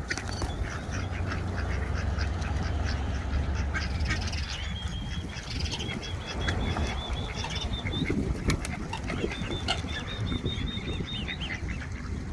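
Ducks quacking among other bird calls, with two quick, even trills from a smaller bird near the middle, over a low rumble.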